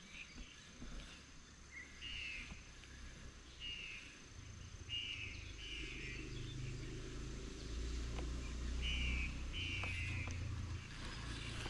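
A bird calling repeatedly in short high notes, several of them in close pairs, over a low rumble that grows louder from about a third of the way in.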